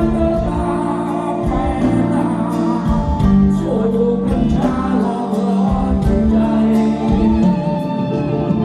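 Live rock band playing a song with a singer, guitars, bass and drums, heard loud through a concert PA.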